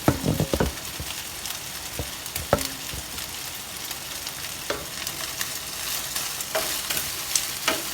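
Chicken and garlic frying in olive oil in a pan, a steady sizzle, with a utensil stirring and knocking against the pan now and then, a quick cluster of knocks at the start.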